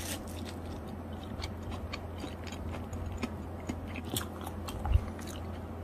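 Crisp crunching of a bite of pan-fried potato pancake (gamjajeon) being chewed, irregular crackles throughout, with a low thump near the end. A steady low hum runs underneath.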